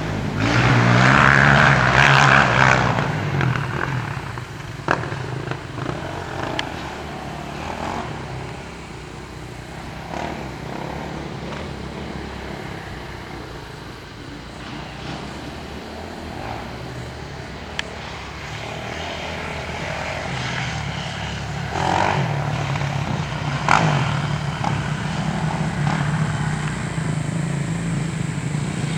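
Dirt bike engine running, loudest and most open in the first few seconds, then steadier and lower, with a few sharp knocks along the way.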